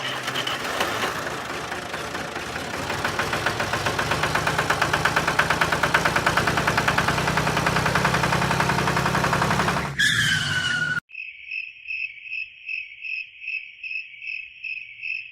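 Small motor or engine running with a fast, even pulse for about ten seconds, then it cuts off. A short falling tone follows, then a high tone pulsing about three times a second.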